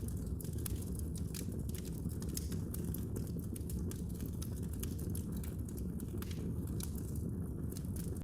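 Fire burning in a fireplace: a steady low rumble of flames with frequent sharp crackles and pops, several a second.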